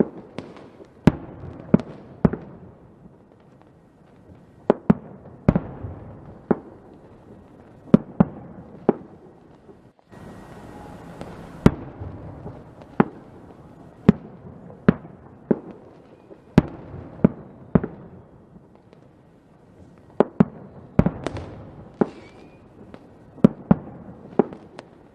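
Fireworks going off: an irregular series of sharp bangs, roughly one or two a second, with fainter crackle between them.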